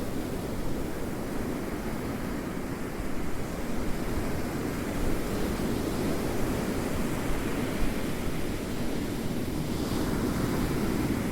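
Ocean waves washing in a steady, deep rush that swells gently now and then.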